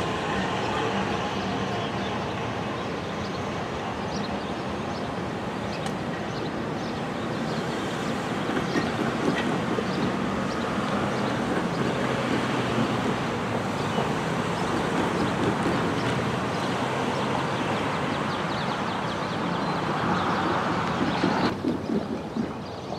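CSX autorack freight train rolling along the rails in a steady, continuous rumble and clatter. The sound drops off abruptly near the end.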